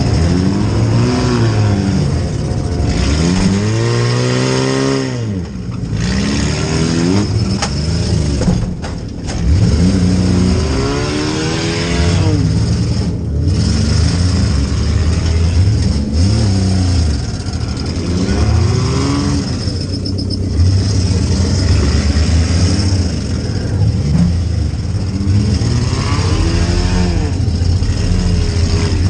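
Stock compact demolition derby car's engine, heard from inside the cabin, revving up and falling back again and again as the car accelerates, brakes and changes direction.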